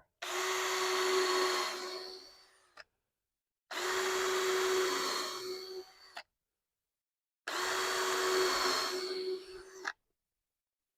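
Power drill drilling holes into 2x6 wood framing, three separate runs of a steady motor whine of about two seconds each, each trailing off as the bit goes through.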